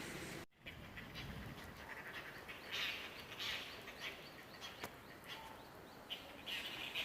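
Wild mountain birds calling: scattered short chirps, in louder clusters about three seconds in and again near the end, after a brief silence about half a second in.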